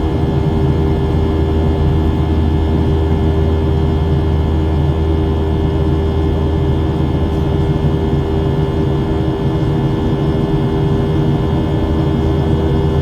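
Steady cabin drone of a Boeing 737-700 in the climb: its CFM56-7B jet engines and the airflow over the fuselage make a loud, even hum with a few steady tones.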